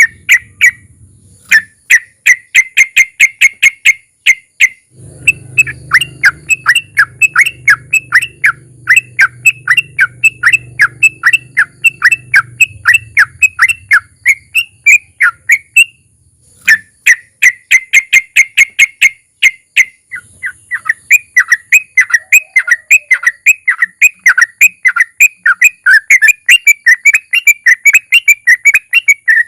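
Yellow-vented bulbul (trucukan) singing its long rolling song ('ropel'): fast runs of sharp whistled notes, several a second, broken by short pauses.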